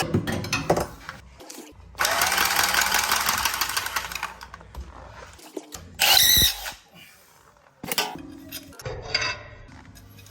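A handheld power tool running in bursts: one of about two seconds a couple of seconds in and a shorter one around the middle, with clicks and knocks of metal between.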